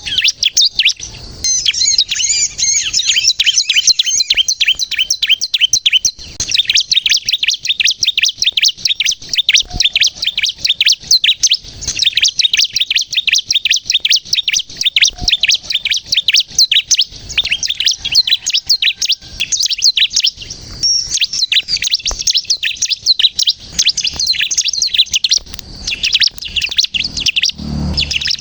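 Bar-winged prinia (ciblek kristal) singing: long runs of rapid, high chirps and trills, broken by a few short pauses.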